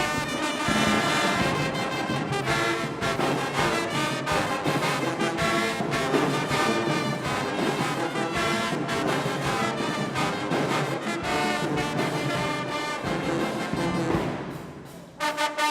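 Marching band playing: brass with drums beating underneath. Near the end the playing drops away briefly, then loud, punchy brass hits come in.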